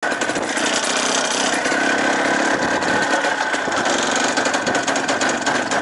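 A motor running loudly and steadily, with a constant high whine over a dense noise.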